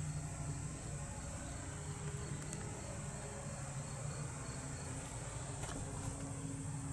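Steady high-pitched drone of insects over a low, steady hum.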